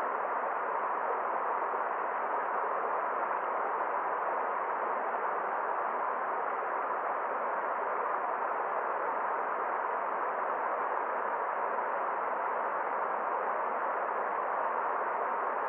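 Forest stream flowing: a steady, even rush of water that does not change.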